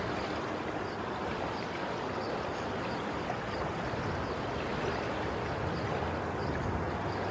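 Sea waves washing on a shore, a steady, even wash of water noise without distinct breaking swells.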